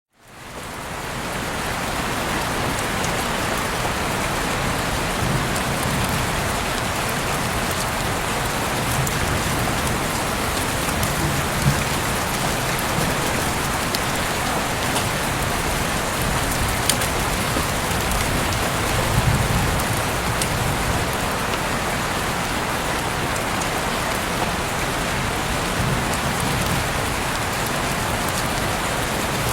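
Heavy rain falling steadily, heard through an open window, with a few sharp drips standing out; it fades in over the first second.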